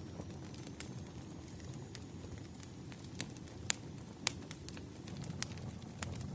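Wood fire crackling: sharp, irregular pops and snaps over a low, steady rumble of burning logs.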